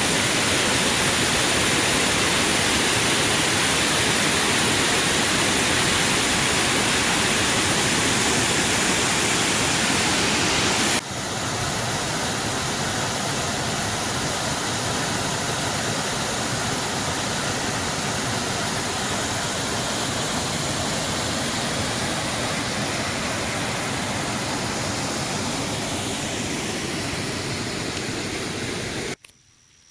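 Waterfall rushing: a loud, steady wash of falling water. About eleven seconds in it breaks off suddenly into a slightly quieter stretch of the same rushing, and near the end it cuts off abruptly.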